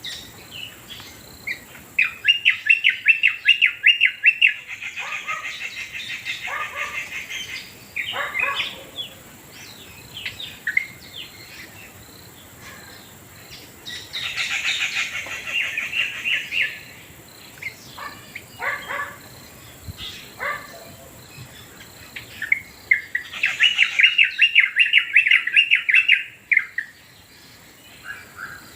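Birds calling: three loud bouts of fast, rapidly repeated chirping notes, each a few seconds long, with shorter scattered calls in between.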